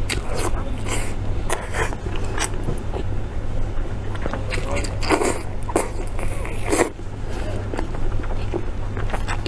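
Close-miked eating sounds: irregular biting and chewing clicks and crunches, with a couple of stronger ones about five and seven seconds in, over a steady low hum.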